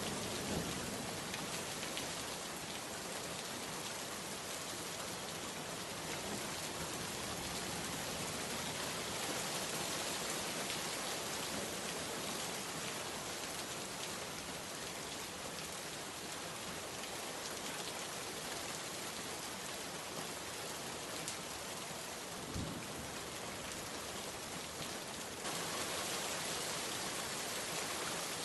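Heavy rain falling steadily on a hard surface, a dense even hiss of drops. A brief low thump comes about two-thirds of the way through, and the rain grows slightly louder near the end.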